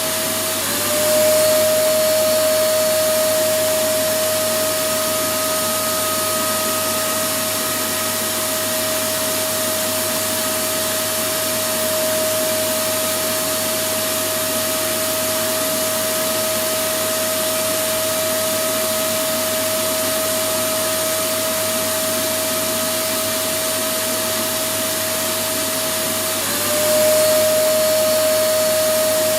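Electric vacuum cleaner running steadily as continuous white noise: a broad rushing hiss with a steady motor whine. The whine dips briefly and rises back, a little louder, about a second in and again near the end.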